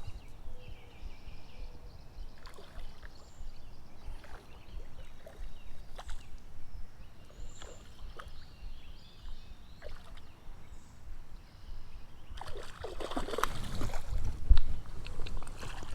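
Creek water sloshing and splashing close by, over a low rumble. The splashing grows louder and busier in the last few seconds.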